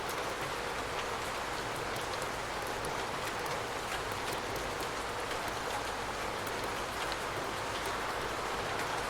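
Steady rain falling, with a dense even hiss and many small scattered drop ticks.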